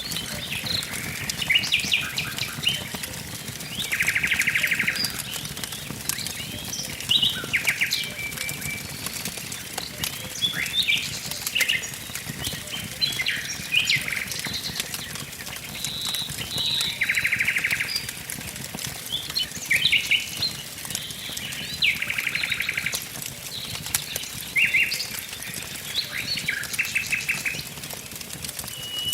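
Several birds singing and chirping, one repeating a fast, roughly one-second trill four times, over the soft crackle of a wood fire.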